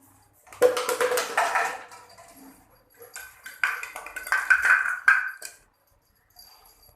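A bottle being chewed and batted about by a small dog, crackling and clattering in two bursts of rapid clicks, the second about three seconds in.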